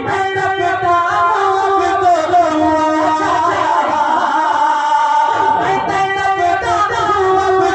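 A male voice singing a naat, drawing out long, wavering notes.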